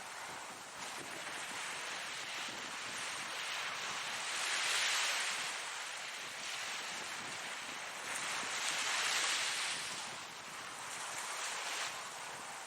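Ocean surf washing in: an even hiss of breaking waves that swells to a peak about five seconds in and again about nine seconds in.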